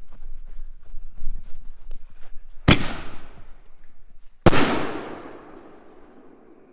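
Dominator "Kapow" 200-gram consumer firework cake going off: faint crackling ticks, then two loud shell breaks about two seconds apart, the second the loudest and echoing away as it fades.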